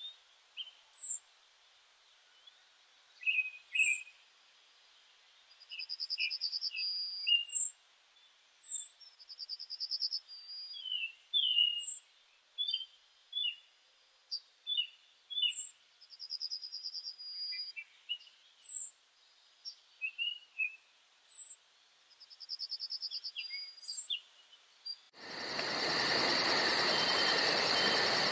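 Several wild birds calling and singing: a short high chirp about every two and a half seconds, brief buzzy trills, and assorted lower chirps. About 25 seconds in, the birdsong cuts off abruptly and a steady, dense insect chorus with a fast pulsing takes over.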